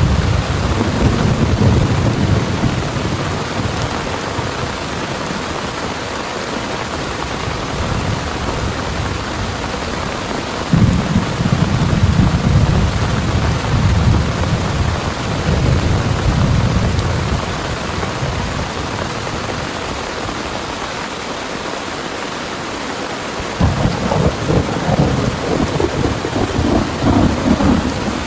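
Heavy rain pouring steadily, with thunder rumbling three times. The first rumble dies away in the first few seconds, the second breaks in suddenly about eleven seconds in and rolls on for several seconds, and the third starts sharply near the end.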